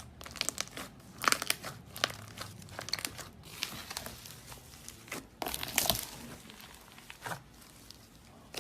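Slime being squeezed and handled close to the microphone, giving irregular crackling and crinkling pops in uneven bursts, the loudest about a second in and again near six seconds.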